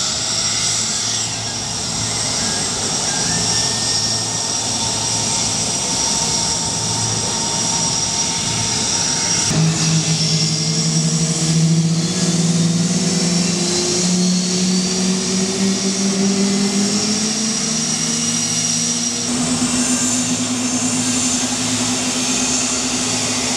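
Aircraft engines running steadily with a high whine. About ten seconds in, a low engine drone starts suddenly and slowly rises in pitch.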